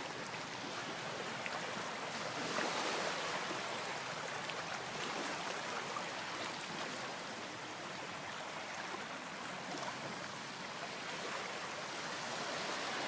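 Steady rush of sea waves breaking on a beach, swelling briefly about two and a half seconds in.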